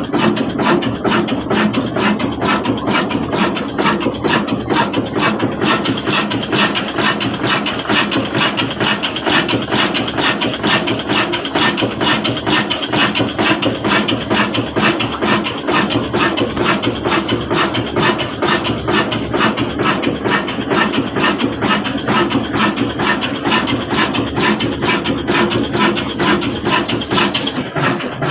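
Old black diesel engine, the kind that drives a small flour mill, running steadily with a rapid, even knocking beat.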